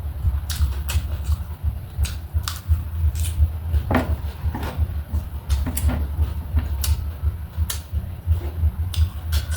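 Close-miked eating: chewing with irregular crisp crunches and mouth clicks over a dull, uneven thumping.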